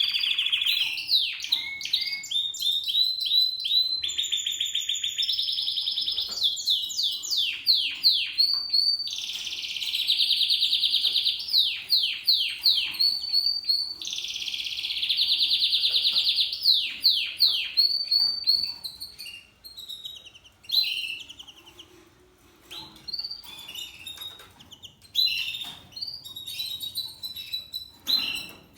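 Spanish Timbrado canary singing: long fast trills near 4 kHz alternating with runs of quick downward-sweeping notes, the song breaking into shorter separate phrases over the last ten seconds.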